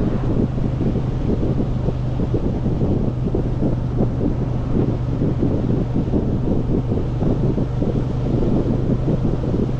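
Wind buffeting the microphone of a motorcycle at road speed, a steady rushing rumble, with the engine's steady low drone underneath.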